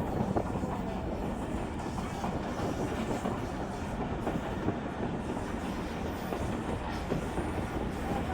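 Train running along the track: a steady rumble of wheels on rail, with some clatter.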